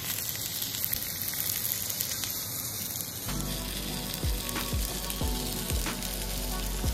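Stuffed cabbage rolls sizzling on a hot iron grill plate as oil is poured over them, a steady frying hiss. About three seconds in, background music with a steady beat comes in over the sizzling.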